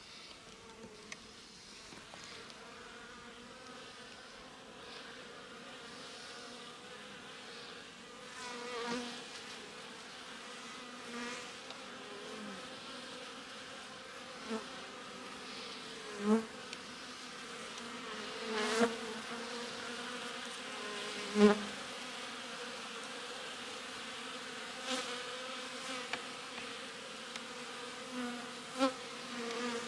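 Honeybees buzzing in an opened winter hive: a steady hum that slowly grows louder, with single bees buzzing loudly close by several times.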